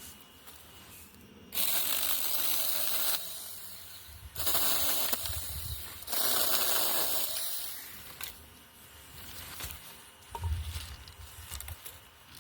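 Saker handheld battery-powered mini chainsaw running in three short bursts of a second or two each, cutting through branches, followed by a few clicks and knocks of handling.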